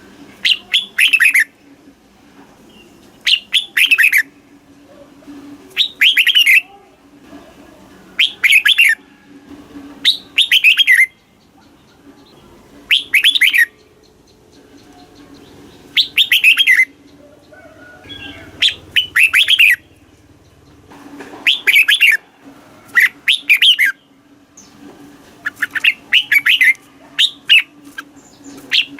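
Red-whiskered bulbul singing: short, loud warbling phrases, each under a second, repeated every two to three seconds. A faint steady low hum runs underneath.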